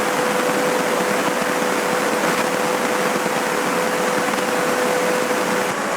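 Steady in-cockpit drone of a Cessna 150's engine and airflow, heard as an even hiss through the headset. Over it a steady tone is held on the radio between repeats of the automated airport weather broadcast, cutting off shortly before the end.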